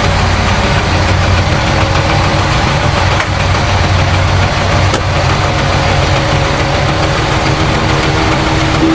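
Engine of heavy earthmoving machinery, a bulldozer or dump truck, running steadily without revving. A brief sharp tick comes about five seconds in.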